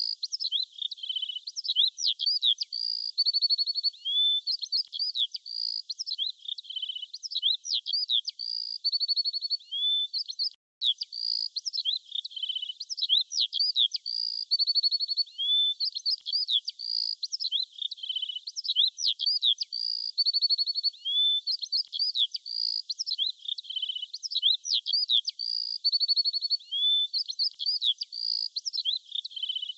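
Small songbirds chirping and singing in quick, high-pitched phrases of rising and falling chirps and short trills, with a momentary dropout about ten seconds in.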